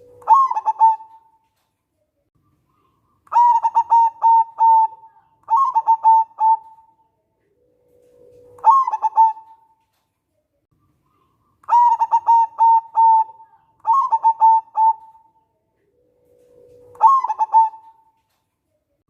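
Zebra dove (perkutut) singing its cooing song: phrases of quick staccato coos near 1 kHz, several opening with a lower drawn-out note that jumps up into the coos. About seven phrases, each a second or two long, with short pauses between them.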